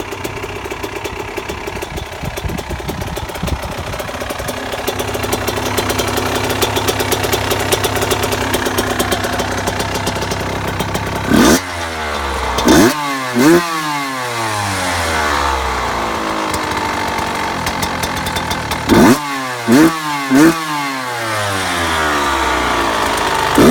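Yamaha YZ125 two-stroke single-cylinder engine idling steadily, then revved with quick throttle blips: three about eleven seconds in and three more about nineteen seconds in. After each blip the revs fall back to idle.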